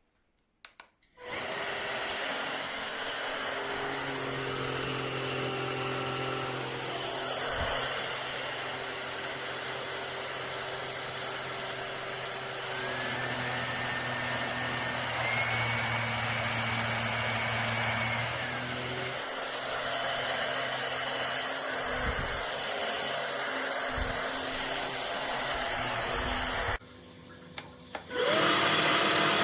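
KESSER cordless stick vacuum cleaner running, a steady motor whine over airflow noise. Its pitch steps up twice, about 12 and 15 seconds in, then falls back a few seconds later. The motor cuts out near the end and starts again about a second later.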